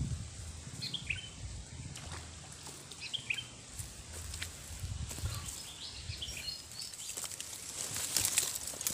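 Birds chirping in short calls a few times, over outdoor background noise that grows into a rustling hiss near the end.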